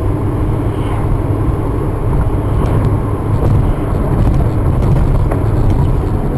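Steady low rumble of a moving vehicle: engine and road noise, with a few faint clicks about three to four seconds in.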